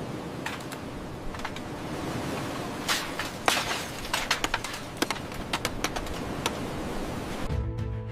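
Irregular sharp clicks and knocks over a steady hiss, like work noise or debris, growing busier midway. Music begins near the end.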